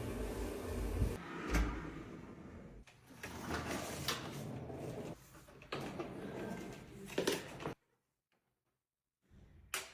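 Kitchen cabinet doors and drawers being opened and shut, with knocks and clatter of things being handled. The sound cuts to dead silence for about a second and a half near the end.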